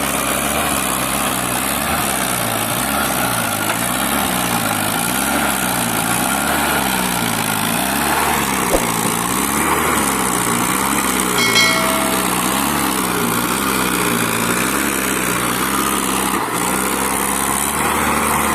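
Mahindra Arjun 555 DI tractor's diesel engine running hard under load, its pitch swinging up and down a little more than once a second as it strains to pull a loaded trolley stuck in mud. A short high tone sounds about two-thirds of the way through.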